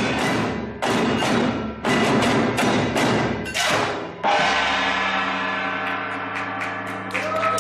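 Percussion music: loud strikes about once a second, then from about four seconds in a single long metallic ringing note that slowly fades, with a few lighter strikes near the end.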